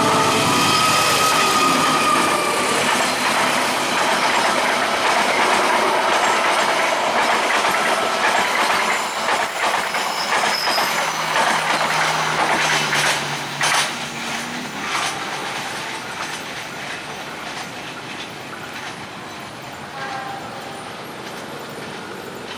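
A train passing a level crossing at speed, its wheels clattering over the rail joints, with brief high wheel squeals on the curve. The noise is loudest for about the first fourteen seconds, then fades as the train moves away.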